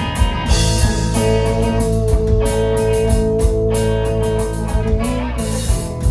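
Live band playing an instrumental passage: guitar over drums and cymbals, with one long held note from about a second in until near the end.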